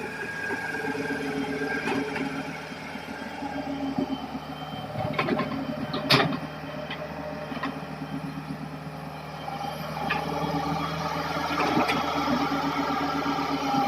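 Hitachi hydraulic excavator's diesel engine running steadily, with scattered knocks and one sharp clank about six seconds in.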